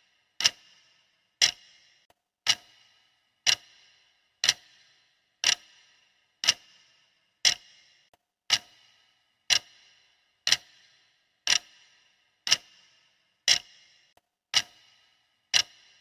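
Steady clock-style ticking, one sharp tick each second, each with a short ringing tail.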